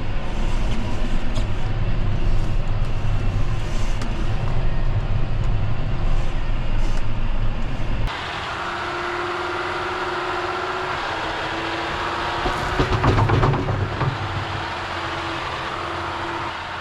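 John Deere 6145R tractor's diesel engine running under load while pushing snow with its blade, a heavy low rumble. About halfway the sound changes abruptly to a thinner, steady whine, with a brief louder surge a few seconds later.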